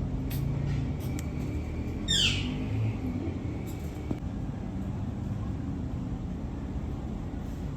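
A ringneck parrot gives one short, harsh screech that falls sharply in pitch about two seconds in, over a steady low rumble.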